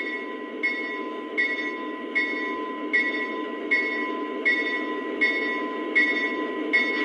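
Sampled locomotive bell ringing from the onboard sound system of a Lionel RJ Corman SD40T-2 model diesel, one strike about every three-quarters of a second. Under it runs the model's steady idling diesel engine sound.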